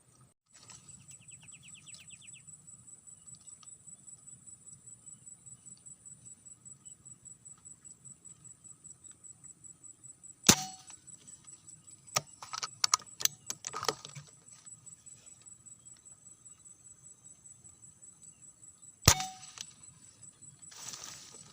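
Two sharp air rifle shots about eight and a half seconds apart, each with a short ring after it, with a run of quick clicks and knocks between them. A steady high insect drone runs underneath.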